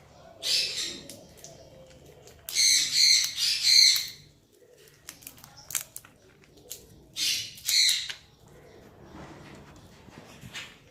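A parrot giving loud, harsh calls: one near the start, a quick run of four a couple of seconds in, then two more a few seconds later, with a few faint clicks in between.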